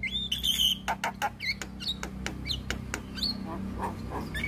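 Javan myna (jalak kebo) calling: a quick run of sharp clicks mixed with short whistled notes and squawks, over a low steady hum.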